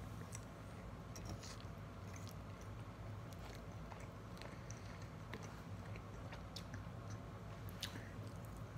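Faint chewing of a mouthful of soft, cheesy food, with scattered small clicks over a steady low hum.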